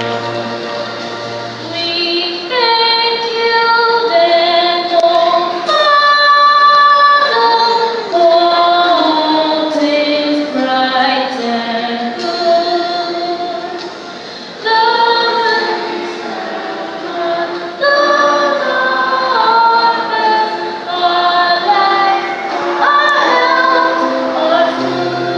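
Choir of young, mostly female voices singing a church special song, holding notes that change pitch every second or so, over instrumental accompaniment.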